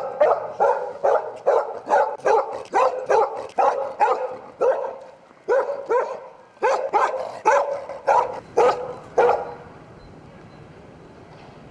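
A dog barking in a steady run, about two to three barks a second, with a short break midway. The barking stops about nine seconds in.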